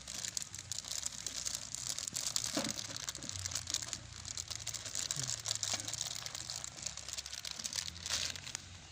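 Plastic packaging of meatballs crinkling and rustling as it is opened by hand.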